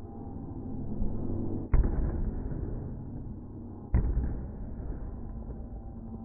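Two fireworks bursts, a little over two seconds apart, each with a sudden crack that fades into a long low rumble, over a continuous rumble of the display. The sound is slowed down and deep-pitched with the slow-motion footage.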